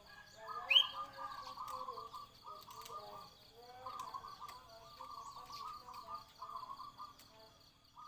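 Cage birds calling, the zebra dove (perkutut) and sooty-headed bulbul (kutilang) of the title: low, rolling, trilled phrases come in short repeated bursts, with one sharp rising chirp about a second in.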